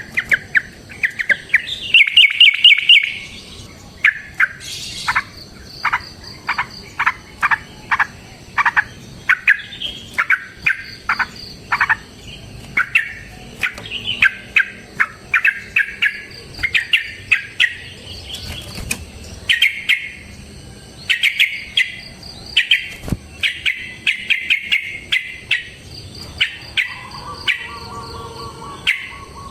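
Yellow-vented bulbul (trucukan) in full song: a long, fast run of short, loud chirping notes, some in quick chattering strings, over faint steady high-pitched tones.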